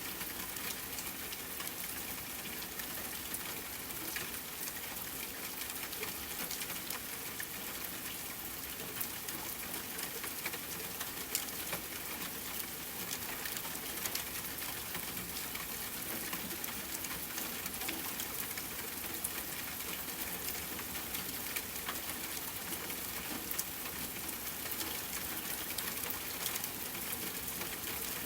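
Rain falling steadily on a tent, an even hiss with many small, sharp ticks scattered throughout.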